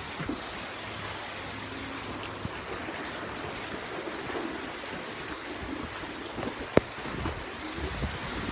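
Storm wind blowing over the microphone with a steady rush of wind and water noise, and a single sharp knock about seven seconds in.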